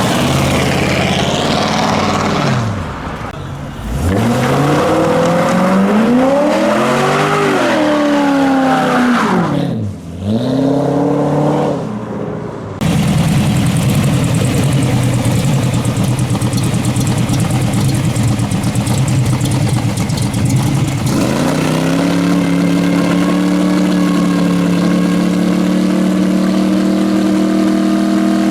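Muscle car and hot rod engines revving and driving past, with engine notes swooping up and down several times in the first ten seconds. After an abrupt change the sound settles into a steady engine drone, and about three-quarters of the way in an engine note rises and holds at a higher, steady pitch.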